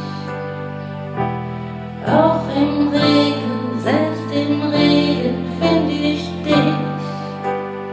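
Electronic keyboard playing a slow instrumental outro: sustained chords over a bass line that change every second or two, with a melody line above.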